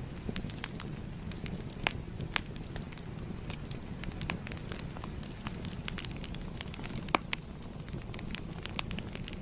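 Wood fire crackling: a steady low rumble of burning with frequent sharp pops and snaps at irregular moments, two of them louder, about two seconds in and about seven seconds in.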